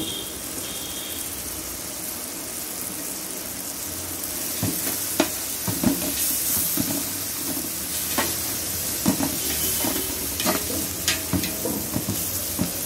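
Onion, tomato and green chilli masala sizzling in oil in a large metal pot as chilli powder is stirred in. A metal ladle scrapes and knocks against the pot in short clicks, starting about four seconds in.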